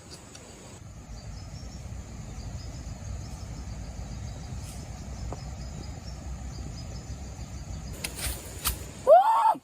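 Rainforest ambience: insects chirping in a steady high drone over a low rumble. Near the end comes one short, loud call that rises and then falls in pitch.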